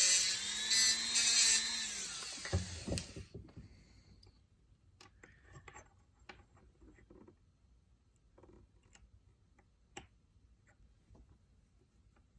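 A small power tool runs loudly for about three seconds, then winds down and stops, followed by faint scattered clicks and taps of small parts being handled.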